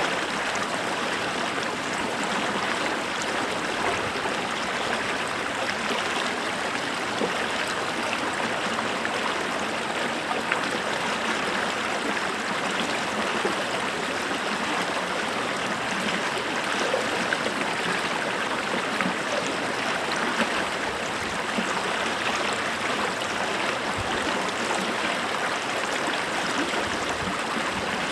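Small creek flowing over stones, a steady rush of water with fine gurgles and splashes.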